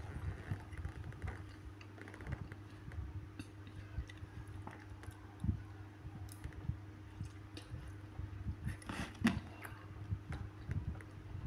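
Close-up chewing of a soft papaya piece, with irregular soft wet mouth sounds and small clicks. About nine seconds in, a sharper click comes from the metal fork against the plastic bowl as it spears the next piece of fruit.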